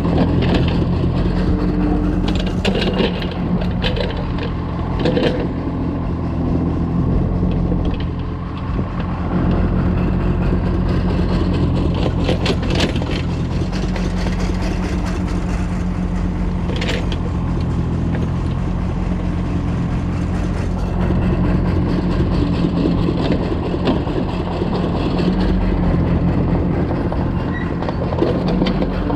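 Kobelco excavator's diesel engine running steadily under load, with scattered scrapes and clunks from the bucket digging and dumping soil.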